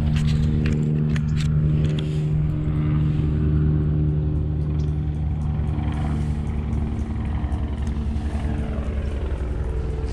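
A motor running steadily with a low hum, with a few sharp clicks or taps in the first two seconds; about seven seconds in, the hum's strongest tone drops away.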